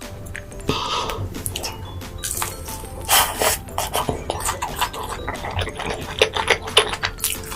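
Eating sounds: food being chewed and crunched, with cutlery clicking and clinking against dishes in a quick, irregular run of short sounds.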